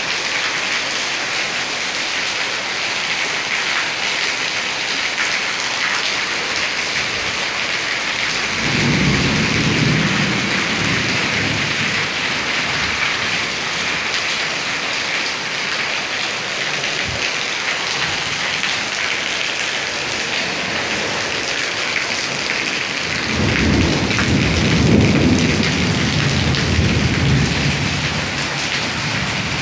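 Heavy rain pouring steadily onto a metal carport roof and the ground around it. Thunder rumbles twice, about nine seconds in and again from about twenty-three seconds, each roll lasting several seconds.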